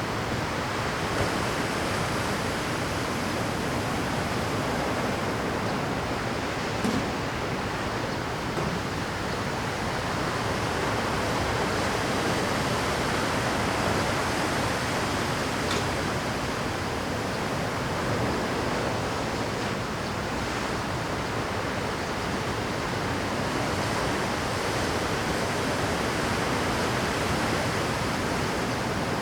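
Rough Pacific surf breaking on a rocky shore at high tide: a dense, steady wash of waves with no let-up.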